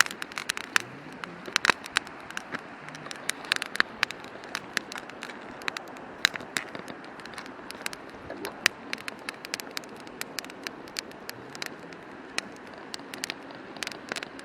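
Wood campfire crackling, with frequent sharp irregular pops and snaps.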